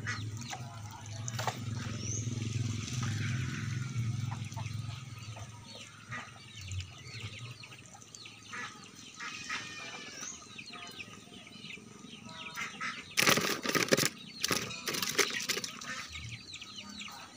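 Birds chirping with many short, high calls. A low hum runs through the first few seconds, and a cluster of loud noisy bursts comes late on.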